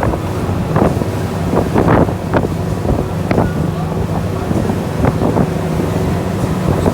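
A glass-bottom tour boat's engine drones steadily while under way, with wind buffeting the microphone in short gusts every second or so.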